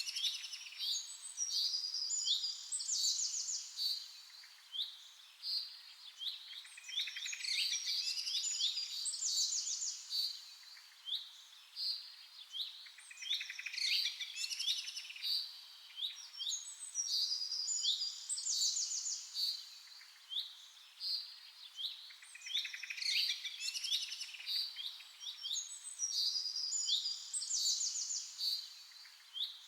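Small songbirds chirping and singing in high-pitched phrases of quick chirps and rapid trills. The phrases come in clusters every five or six seconds, with quieter gaps between them.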